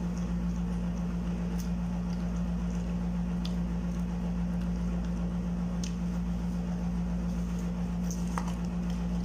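A steady low hum runs throughout, with a few faint wet clicks of someone chewing food with the mouth open, spaced a couple of seconds apart.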